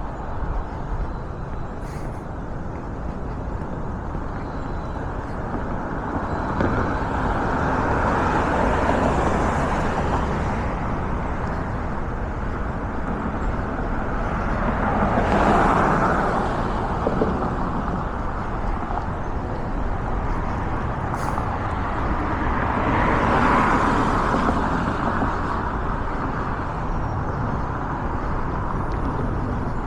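Road traffic noise with a steady low rumble, and three cars passing one after another, each a swell of tyre and engine noise that rises and fades; the one about halfway through is the loudest and quickest.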